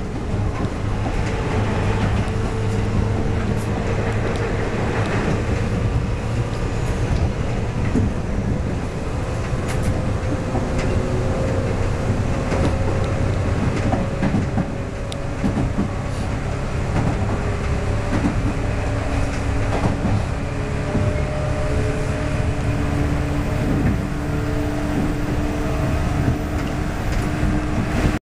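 Inside a JR West 113-series electric train running along the line: a steady rumble of wheels on rail with scattered clicks from rail joints. A traction motor and gear whine climbs slowly in pitch throughout as the train gathers speed.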